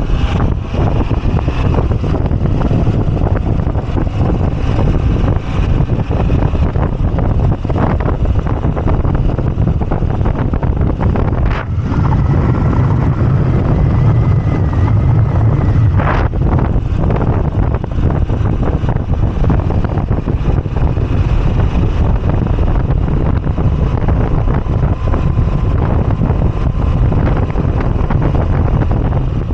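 Wind rushing over the microphone on a moving Moto Guzzi V85TT, with the bike's air-cooled V-twin engine running steadily underneath.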